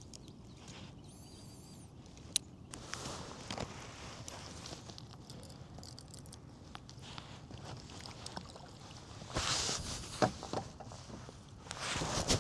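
Handling sounds aboard a fishing kayak on the water: scattered clicks and knocks of gear against the hull with soft splashing, louder in bursts near the end.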